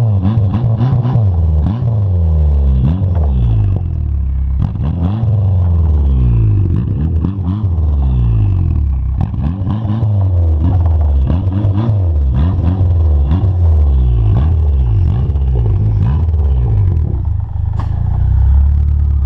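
Four-cylinder Honda Accord engine heard through a Ktuned 3-inch turn-down catback exhaust, its note rising and falling in pitch over and over as it is revved.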